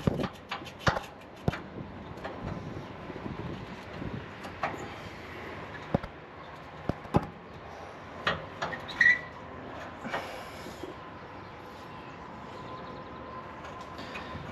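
Scattered sharp metallic knocks and clanks of tools and hardware during work on the F-150's rear shocks, over a steady background noise.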